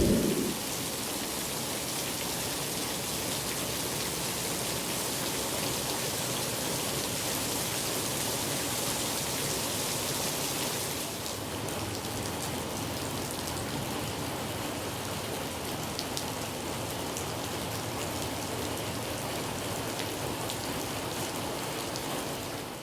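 Rain falling steadily, easing slightly about halfway through.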